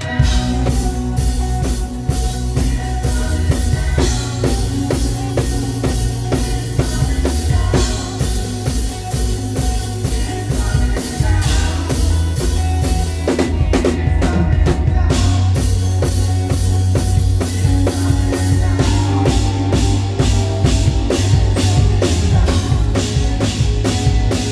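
Live band playing praise music: a drum kit keeping a steady groove of kick, snare and rimshots over sustained bass and held chords.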